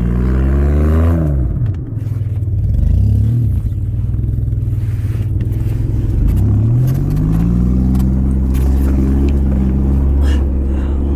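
Audi car engine revving, likely as it tries to drive out of a snowy ditch. The revs drop about a second in, blip briefly, then climb again about halfway through and are held high.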